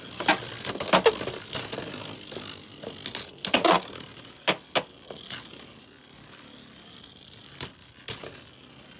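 Spinning Beyblade tops clashing in a plastic stadium: sharp clacks of hits, many in quick succession over the first few seconds, then fewer and further apart over a faint steady spinning whir.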